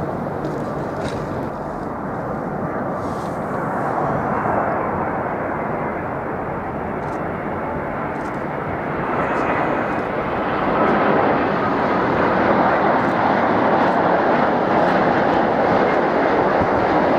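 Jet airliner engine noise, a steady rushing roar that grows louder about two-thirds of the way through and stays loud.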